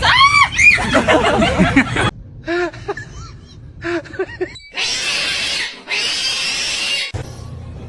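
Cat yowling and meowing in drawn-out, rising-and-falling calls, then shorter meows. This is followed by two long hissing sounds, about two seconds each.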